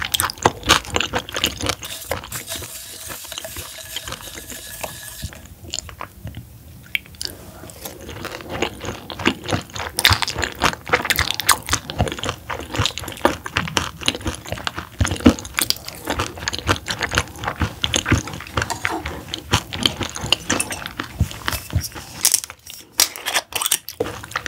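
Close-miked chewing of raw roughscale sole sashimi and a ball of its pounded bones: dense wet clicks and crunches, pausing briefly near the end.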